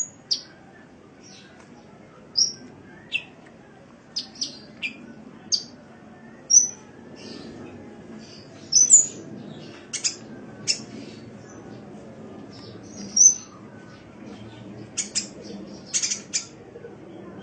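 Sunbird (the bird Indonesian keepers call 'kolibri') giving short, sharp, high-pitched chirps and squeaky notes, some sliding upward, at irregular intervals, over a faint low background hum.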